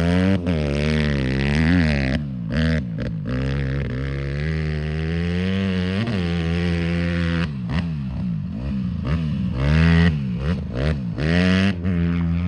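Dirt bike engine, a 150R four-stroke, revving up and down again and again as the throttle is worked, with short dips where it backs off.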